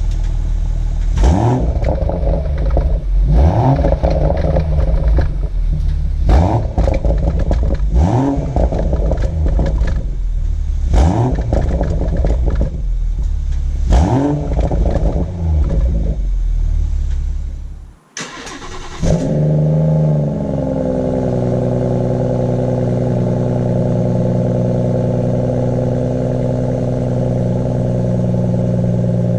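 BMW M140i's 3.0-litre turbocharged straight-six on its standard exhaust, revved in short blips about every two seconds, each followed by pops and bangs as the revs fall. After a brief break about 18 seconds in, the engine is started and settles into a steady idle, dropping slightly in pitch.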